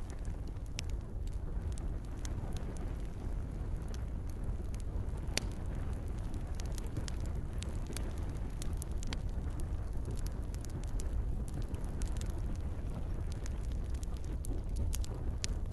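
Campfire burning with scattered sharp crackles and pops over a steady low rumble, with gentle rain in the background.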